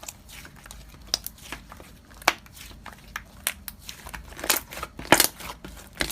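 Hands squeezing and poking slime, giving a run of irregular small sticky clicks and crackles, a few louder pops about two, four and a half and five seconds in.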